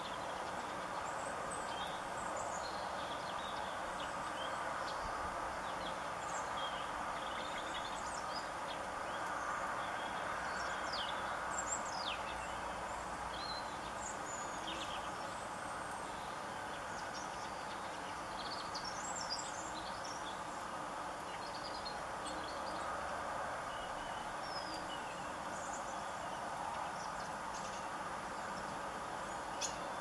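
Small garden birds giving many short, high chirps and calls, scattered through the whole stretch, over a steady background noise.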